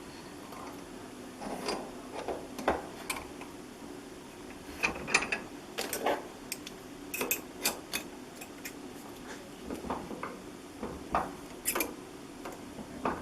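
Bench vise being worked to squeeze a bent thin steel plate flat: irregular metallic clicks and clanks from the vise handle and jaws, some with a short ring.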